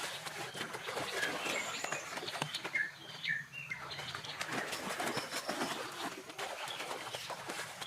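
Birds giving short chirps over a steady background of many small clicks and crackles.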